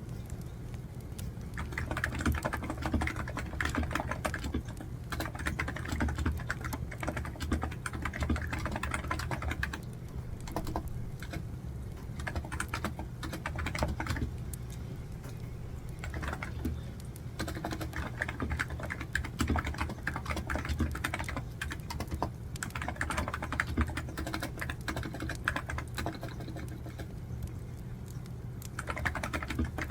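Typing on a computer keyboard in runs of a few seconds with short pauses between them, over the steady crackle of a burning wood fire.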